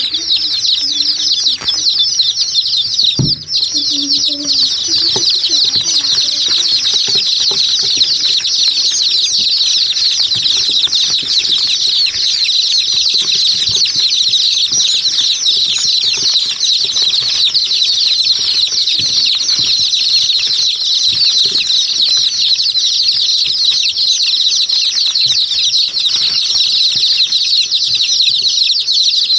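Many small birds chirping at once in a dense, unbroken high-pitched chatter, as from a crowded flock or aviary.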